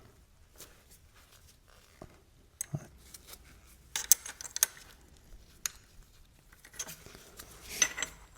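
Scattered light clicks and clinks of a metal side stand extension plate being handled and offered up to a motorcycle's side stand foot. There is a small cluster of taps about four seconds in, and another near the end.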